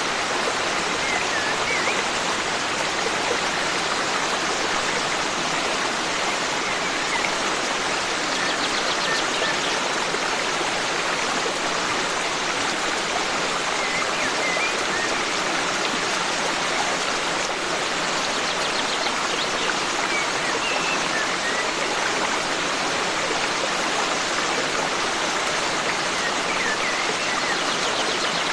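Forest stream flowing steadily in a dense, even rush of water. Small birds chirp faintly every few seconds.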